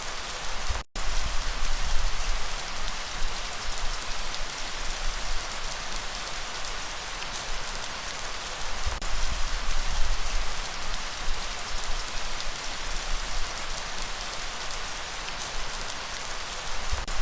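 Steady rain falling and pattering on surfaces. The sound cuts out completely for a split second about a second in.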